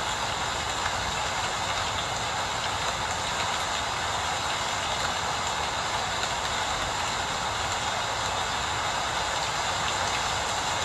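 Steady rain, an even hiss that does not change, with a faint low rumble beneath it.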